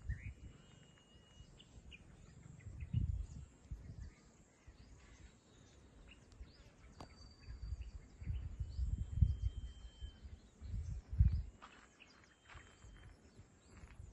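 Outdoor ambience with faint, thin bird whistles and chirps, broken by a few low rumbling bursts that are the loudest sound, about three seconds in and twice in the second half.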